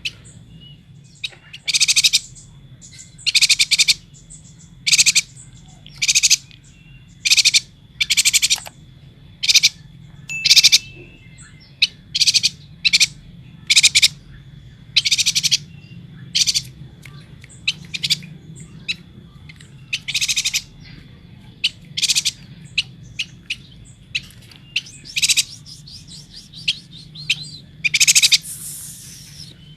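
Chestnut-crested yuhina calling over and over: short, high chattering calls at uneven intervals, some clipped and some running on for about a second. A faint steady high whine and a low hum run underneath.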